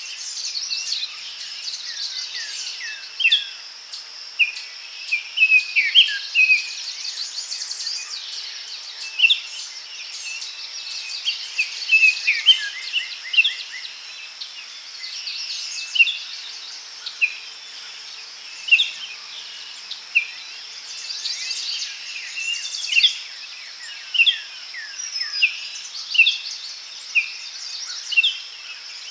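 Daytime forest ambience: a steady, high insect drone with many birds calling over it in short chirps and quick falling notes.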